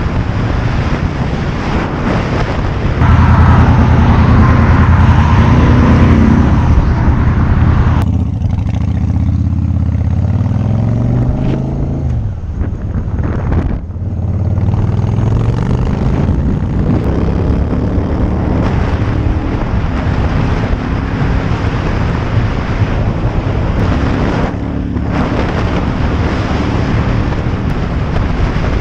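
Motorcycle engine under way, picked up by a helmet-mounted action camera's microphone with wind noise. The engine pitch rises and falls through acceleration and gear changes, loudest from about three seconds in.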